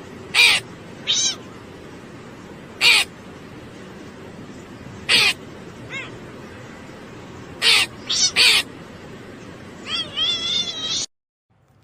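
A cat meowing repeatedly in short, high-pitched calls, about eight of them spaced a second or two apart, then a longer wavering meow near the end, over a steady background hiss.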